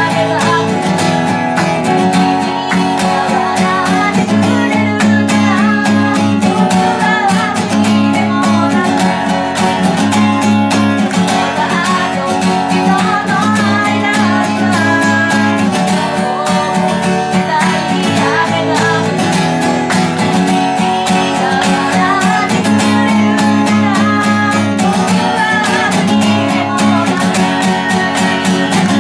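Live acoustic guitar strumming chords, with a wavering sung melody over it.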